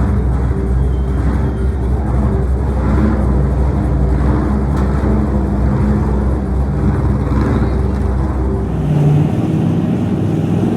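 A monster truck's engine running loud, with a deep low rumble that drops away about nine seconds in.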